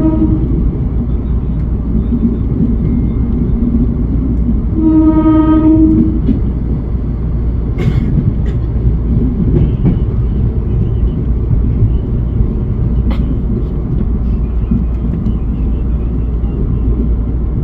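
Commuter electric train running with a steady low rumble. Its horn sounds briefly at the start and again for about a second around five seconds in, and there are a few sharp clicks later on.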